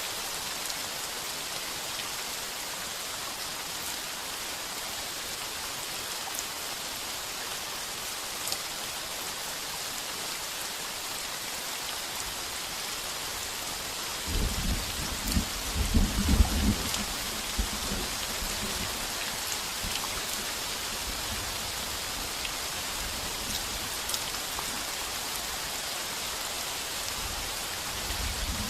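Heavy rain drumming steadily on a tin roof. About halfway through, a loud roll of thunder rumbles for a few seconds, then fades into a low distant rumble under the rain.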